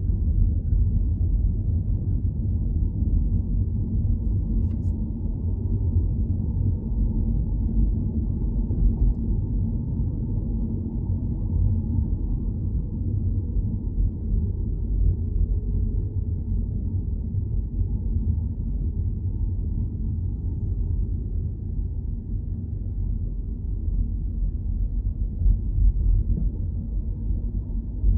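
Steady low rumble of a car driving, road and engine noise, with a faint click about five seconds in.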